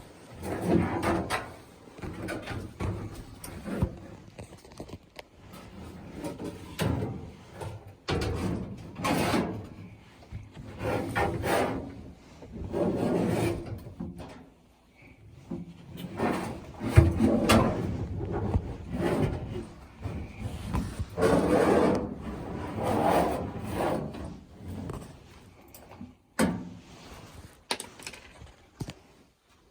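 A Kenmore gas dryer's drum being worked back into the cabinet: repeated scraping and rubbing with clunks and bumps. The loudest sound is a sharp knock a little past halfway.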